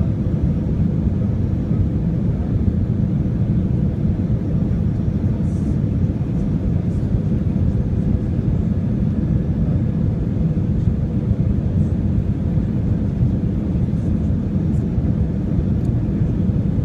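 Airbus A319 airliner during landing: a steady low rumble of engines and rushing air, with a faint steady hum above it.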